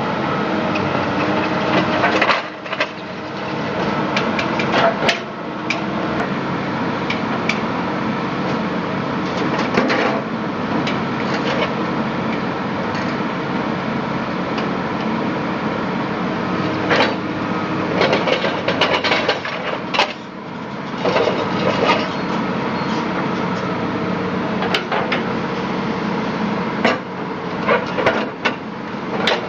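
An engine running steadily, with irregular metal knocks and clanks from hammering during excavator track repair. The knocks come in bunches, thickest in two runs, one about three-quarters of the way through and one near the end.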